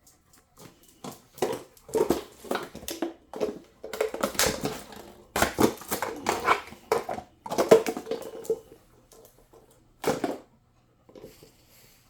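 A dog handling a fetched object in its mouth: irregular crunching and crackling in quick bursts, dying down near the end.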